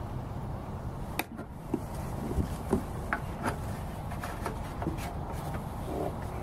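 Irregular light knocks and clicks over a steady low rumble, made while handling a push mower that fails to start; no engine runs.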